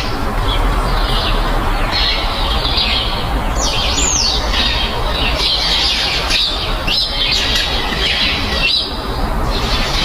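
Birds chirping and squawking, many short high calls overlapping, with one louder call rising and then falling about four seconds in, over a steady background hiss.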